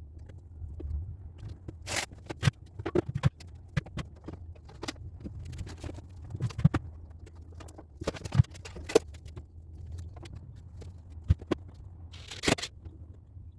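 Irregular clicks, knocks and scrapes from hand work, as screw-in hooks for the shop lights are turned into pre-drilled holes and the clips are handled. A longer scrape comes near the end, over a steady low hum.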